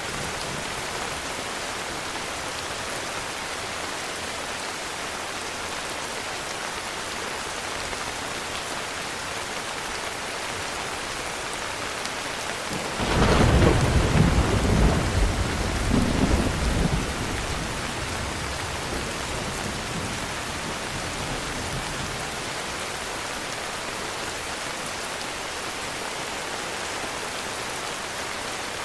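Steady heavy rain, with a sudden clap of thunder about halfway through that rumbles for about four seconds and fades back into the rain.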